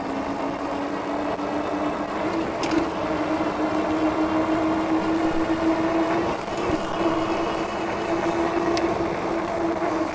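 Hiboy P6 e-bike's 48V 750W Bafang hub motor whining under full throttle with no pedaling. Its pitch rises as the bike accelerates over the first couple of seconds, then holds steady at speed, over a steady rush of wind and tyre noise.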